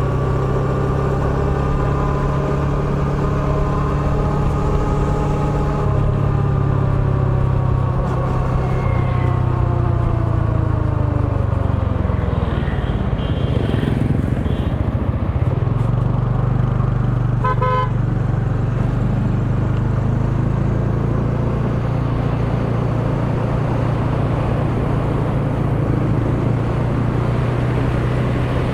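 Motor scooter engine running steadily while riding through city traffic, its pitch slowly rising and then falling away about halfway through before settling again. A horn gives a short beep about two-thirds of the way in.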